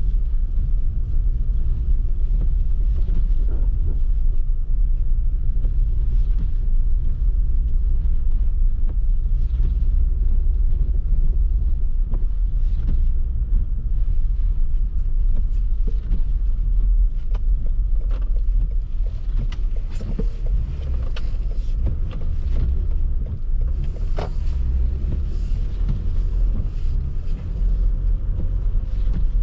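Car driving through a snowstorm: a steady low rumble of engine and tyres on the snowy road, with scattered faint clicks and ticks, more of them in the second half.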